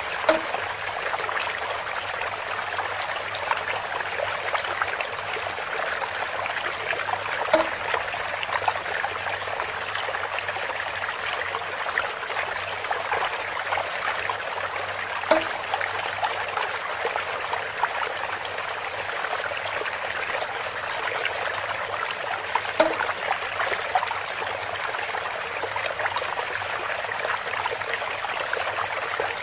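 Water trickling steadily through bamboo, with a short knock four times, about every seven and a half seconds.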